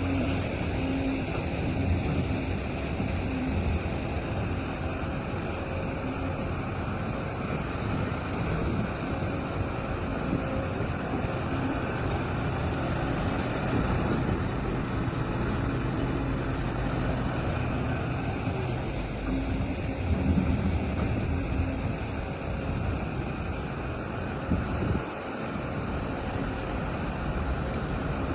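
Large mining excavator's diesel engine running steadily under working load, a heavy engine drone that swells and eases, with a brief dip near the end.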